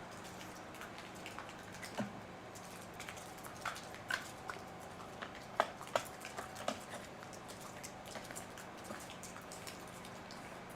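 Scattered light clicks and taps of chainsaw parts and tools being handled, most of them in the first two-thirds, over a faint steady hum.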